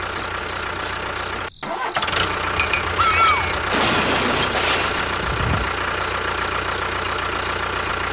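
Engine running steadily, with a brief break about one and a half seconds in and a few short high squeaks around three seconds.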